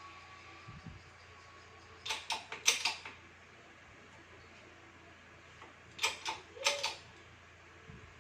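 Two short runs of sharp clicks and knocks, one about two seconds in and another about six seconds in, from tools and shock-absorber parts being handled during disassembly.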